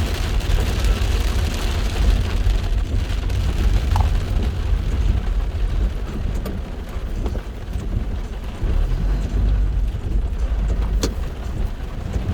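Heavy rain pouring down as an even hiss over a constant low rumble, with a couple of sharp ticks, one about four seconds in and one near the end.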